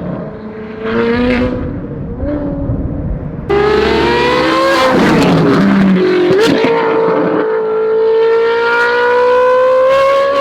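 Ferrari 458's naturally aspirated V8 through a free-flow titanium exhaust with race headers, accelerating hard. It is quieter for the first few seconds, turns suddenly loud about three and a half seconds in, dips in pitch around six seconds (a gear change), then climbs in a long, slowly rising pull through the gear.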